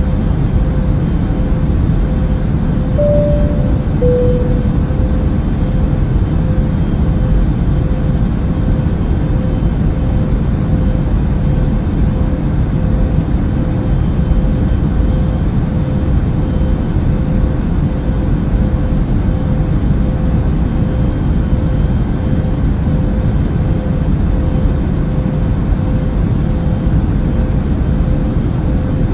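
Steady airliner cabin noise of an Airbus A380 in cruise: an even low rush of engine and airflow with a faint steady hum. About three seconds in, a short two-note chime sounds, high then low.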